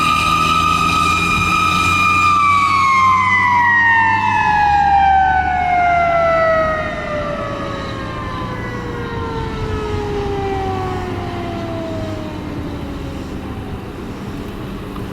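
A fire truck's mechanical siren holds a high, steady wail for about two seconds, then winds down in one long, slow fall in pitch as the rotor coasts, over the low rumble of the truck's diesel engine. The sound gets quieter about halfway through as the truck moves off.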